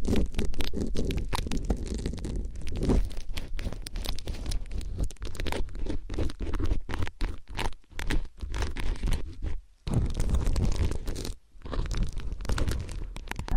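ASMR ear-cleaning sounds: close, crackly scratching and rubbing in an ear, in quick irregular strokes, with a few short pauses in the second half.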